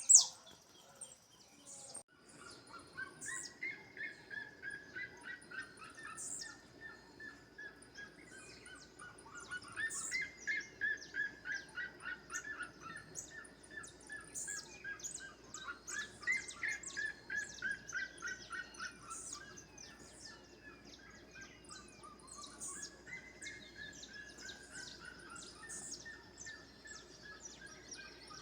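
Birds singing: one bird gives a long series of notes falling in pitch, repeated four times about every six or seven seconds, while other birds add short high chirps.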